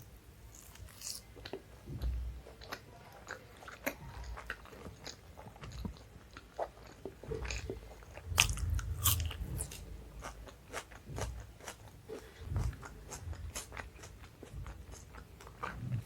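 Close-miked eating sounds from a meal of chole bhature and rice: wet chewing with many small sticky mouth clicks and crackles, loudest and busiest about eight to nine seconds in.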